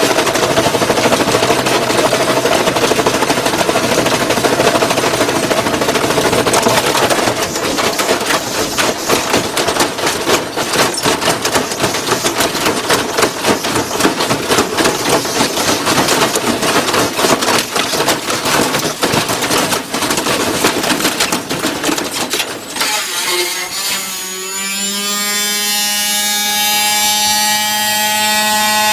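Washing machine rattling and banging hard and fast, a loud continuous racket of knocks. About 23 seconds in the banging stops, and a buzzing tone rises in pitch and then holds steady.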